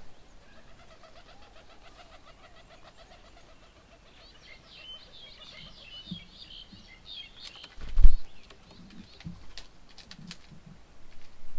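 Birds calling: a quick run of repeated low notes, then busy high chirping, with scattered clicks and one loud thump about eight seconds in.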